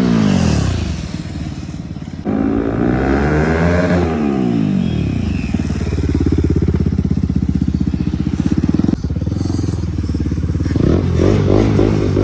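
Bajaj Pulsar NS200's single-cylinder engine breathing through an aftermarket Akrapovic exhaust. It is revved up and down several times, with a steadier stretch of running in the middle, and the sound cuts abruptly twice.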